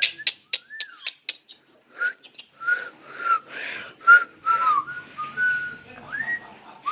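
Yellow-naped amazon parrot whistling: a run of short whistled notes and chirps at about the same pitch, with sharp clicks in the first couple of seconds, ending on a rising whistle.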